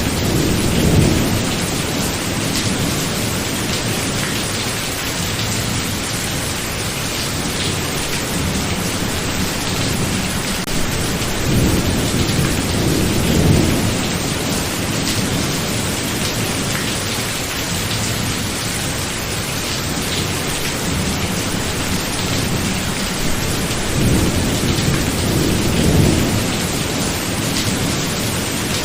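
Thunderstorm: steady heavy rain with low thunder rumbling three times, about every twelve seconds.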